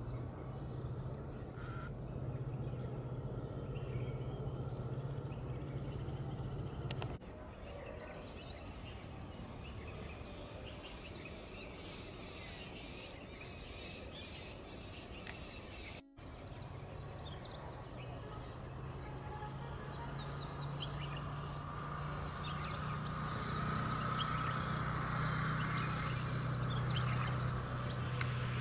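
Many short, high bird chirps and calls from several small birds, growing busier and louder in the second half, over a steady low hum.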